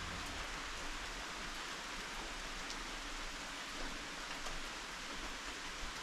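Steady rain falling, an even hiss with faint drop ticks here and there.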